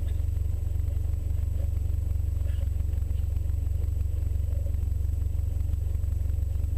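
Subaru rally car's flat-four engine idling steadily, heard from inside the cabin: a constant low rumble.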